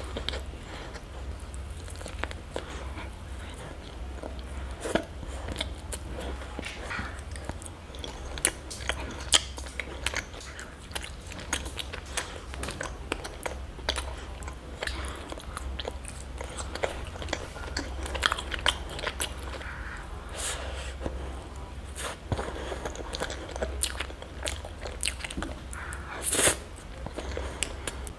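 Close-miked ASMR eating: biting into and chewing crunchy chocolate, with many sharp crackles and snaps and one loud crunch near the end.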